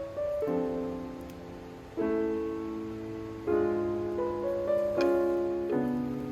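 Background music: gentle piano chords struck every second or two, each left to ring and fade.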